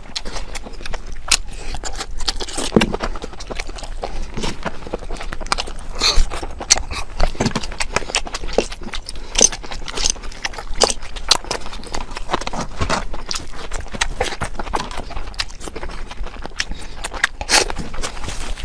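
Close-miked food and utensil sounds in an eating-sounds recording: a steady run of small clicks and taps, a few each second.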